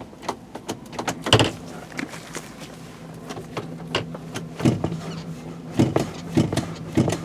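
Truck engine idling with a steady hum while the column shifter is worked repeatedly, giving a string of clicks and clunks as it sticks and won't come out of gear, a common brake-switch/shift-interlock fault on these trucks.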